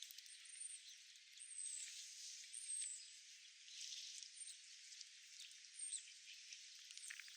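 A small bird giving short, very high chirps, about five of them spaced irregularly, over a faint crackly outdoor hiss.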